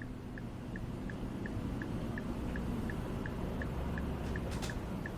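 Vehicle indicator flasher ticking steadily, about three clicks a second, over a low steady rumble of engine and cab noise.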